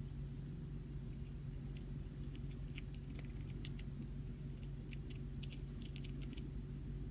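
Hamster nibbling cabbage leaves: a run of small, crisp clicks from about two and a half seconds in until shortly before the end, over a steady low hum.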